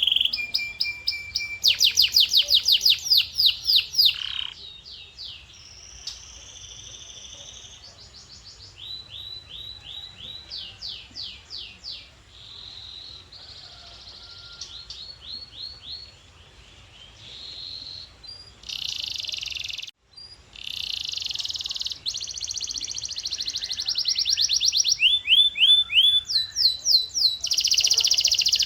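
Male canary singing: a long song of rapid trilled phrases, each a quick run of repeated high notes or sweeps, changing from phrase to phrase. The song is loud early on, softer in the middle, with a short break about twenty seconds in, then louder again toward the end.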